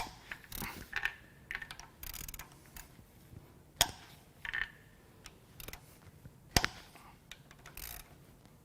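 Hand tools on engine bolts: a ratchet wrench clicking in short runs, with sharp cracks as the bolts break loose, the loudest about four and six and a half seconds in.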